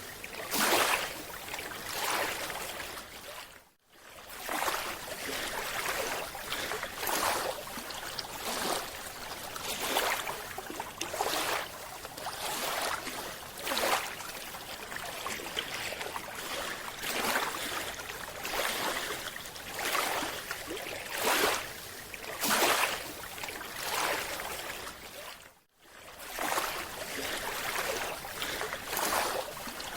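Water noise in repeated surges, roughly one a second, each a rush of hiss. It drops out briefly twice, about four seconds in and near the end.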